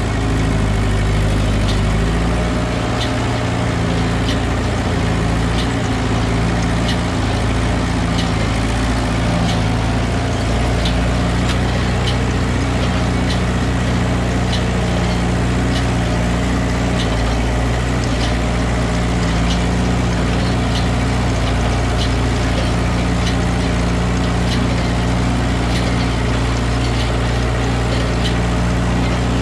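Ford 8N tractor's four-cylinder engine running steadily in first gear, powering and pulling a Massey Ferguson No. 3 hay baler, with a sharp click repeating about once a second.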